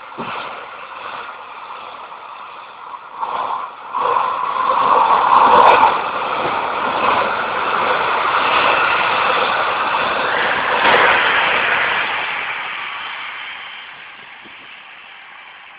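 Container freight train wagons rolling past, a steady noise of wheels on rail that grows louder about four seconds in and then fades away near the end as the last wagon draws off.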